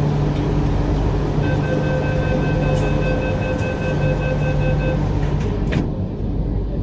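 MTR Q-Train door-closing warning: a fast electronic beeping for about three and a half seconds over the train's steady hum, then the doors shut with a sharp knock near the end, after which the car's noise is more muffled.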